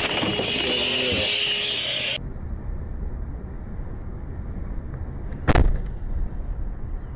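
Car dashcam audio. Loud hiss with a high whine cuts off suddenly about two seconds in. Low road and engine rumble follows, with one sharp bang about five and a half seconds in.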